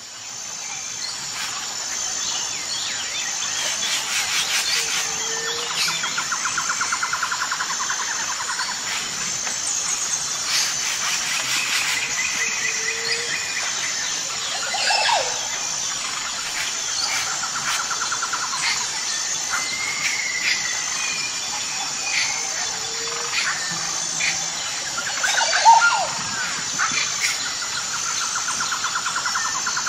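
Birds chirping and singing, with a high, evenly repeating chirp running underneath. The sound fades in over the first couple of seconds.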